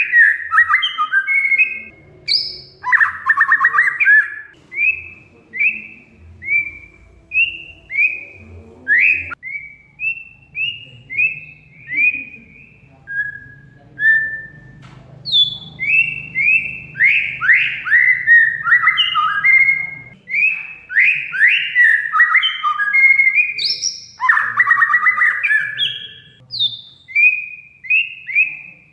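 Oriental magpie-robin (kacer) singing a run of short, clear, down-slurred whistled notes. The song is broken twice by a harsh, rapid chatter: once a few seconds in and again near the end.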